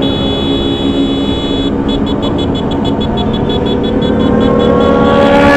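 Motorcycle running along the road with heavy wind rumble on the microphone. Toward the end a steady horn-like tone builds and grows louder.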